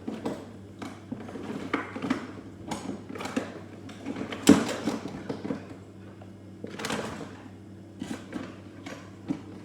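Irregular clicks, knocks and clatter of parts and tools being handled during a freezer repair, the loudest knock about four and a half seconds in, over a steady low hum.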